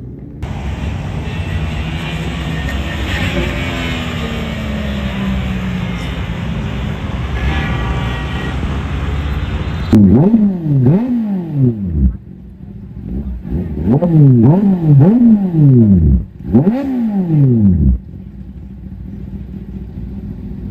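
Superbike with a loud aftermarket exhaust: a steady rush of engine and road noise, then about ten seconds in a string of quick throttle blips, each rev rising and dropping sharply, before the engine settles back to a low idle.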